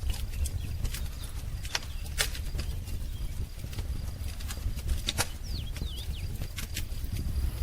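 Wood fire crackling, with irregular sharp pops over a low steady rumble, and a few short bird chirps a little past the middle.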